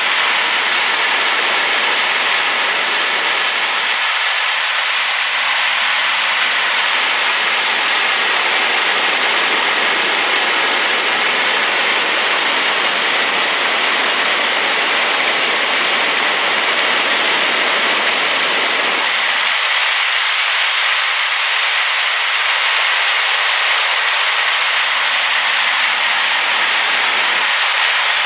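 Waterfall in spate after rain, a loud steady rush of falling water. The low end of the roar fades in and out at times.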